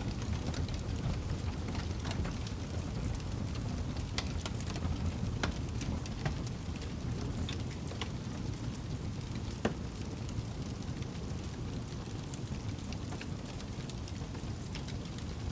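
Campfire burning, with a steady low rumble and irregular sharp crackles and pops from the burning wood; one pop stands out, a little over halfway through.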